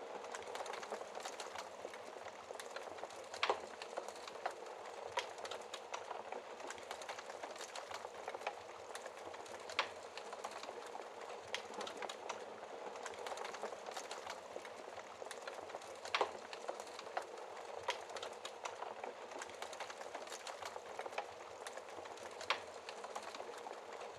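Wood fire crackling in a fireplace: a steady hiss with frequent small snaps and a few louder pops.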